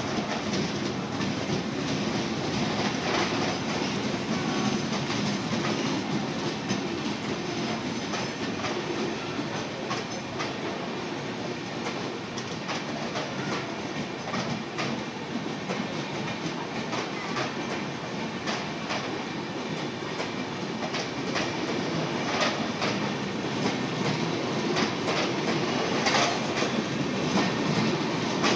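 Passenger train running along the track, its wheels clacking irregularly over rail joints above a steady rumble.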